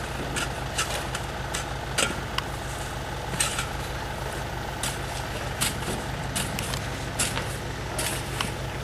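Truck engine idling steadily, with irregular short scrapes and knocks of snow being unloaded from the truck.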